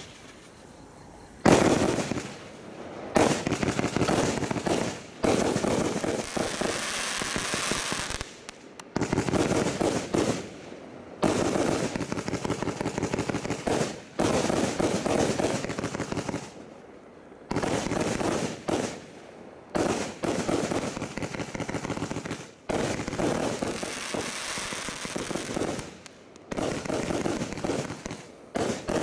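A 100-shot fireworks barrage cake firing: rapid volleys of shots and bursts in runs of one to three seconds, with short lulls between runs.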